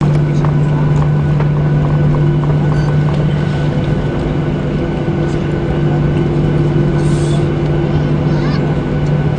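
Steady hum inside an airliner's cabin, with a low drone and a faint high whine held at an even level, a few small ticks and a brief hiss about seven seconds in.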